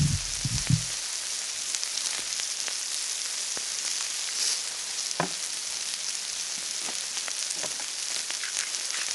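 Sliced pork sizzling on fire-heated river pebbles: a steady frying hiss with scattered crackles and pops. A few dull knocks come in the first second, and a sharp click about five seconds in.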